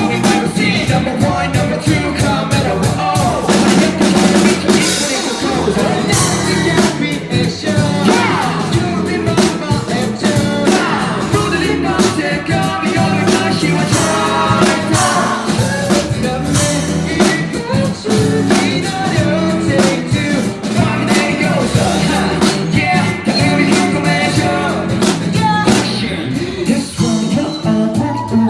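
Live rock band playing, with drum kit, guitar and bass, and singing over it.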